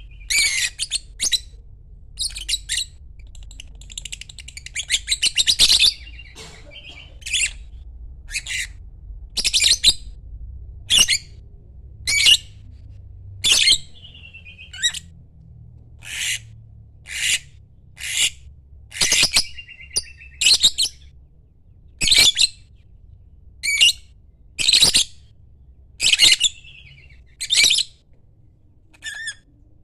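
Lovebird giving a long series of short, shrill chirps, about one a second, with a burst of rapid chattering a few seconds in.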